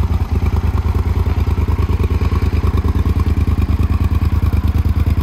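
2016 Yamaha Super Ténéré's 1,199 cc parallel-twin engine idling steadily with an even pulse.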